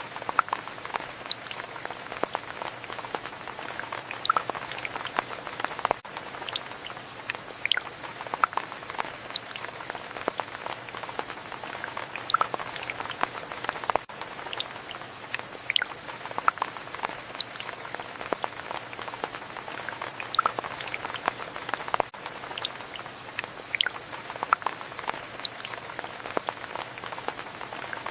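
Steady rain with many distinct drops pattering and dripping close by. The same stretch repeats about every eight seconds.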